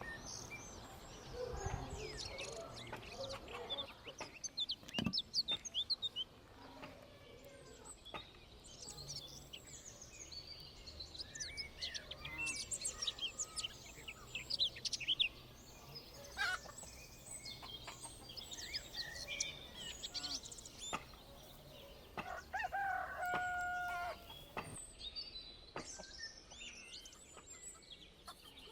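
Chickens clucking and small birds chirping, with a few sharp knocks; a rooster crows once about 22 seconds in.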